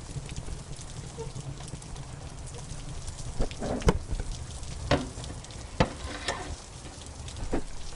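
Wood fire crackling in a fireplace over a low steady rumble, with several sharp pops in the second half, the loudest about four seconds in.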